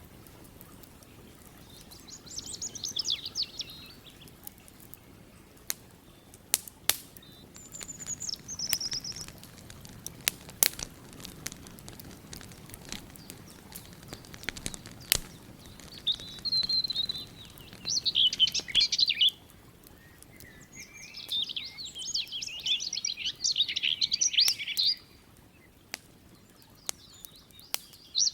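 Songbirds singing in several short, quick high phrases, over scattered sharp crackles of a campfire and a low steady rush of water.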